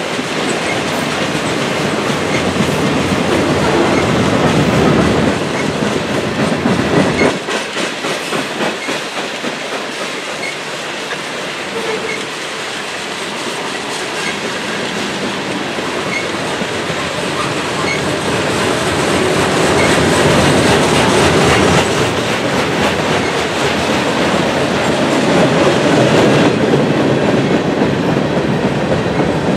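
Freight train of boxcars and tank cars rolling past close by: a steady rumble and rattle of steel wheels on the rails.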